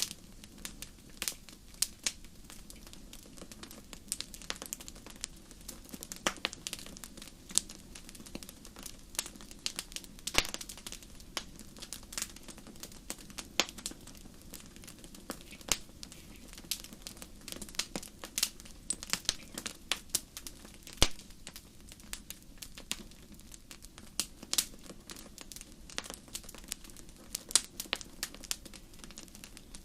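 Wood fire crackling: irregular sharp pops and snaps, several a second with an occasional louder one, over a steady low rush.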